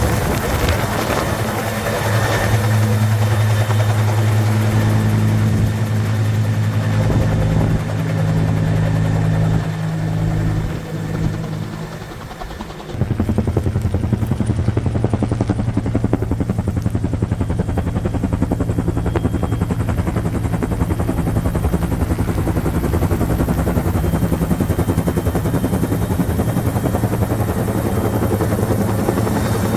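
Firefighting helicopter running, with a steady low rotor beat and engine drone. The sound drops away for a few seconds past the ten-second mark, then comes back suddenly at full strength.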